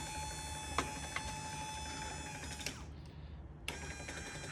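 Salvaged car power-window electric motor whining through its gear drive, with a few clicks. It winds down with a falling pitch, then starts again about a second later. The motor's gears are damaged, messed up from hitting the base of the motor.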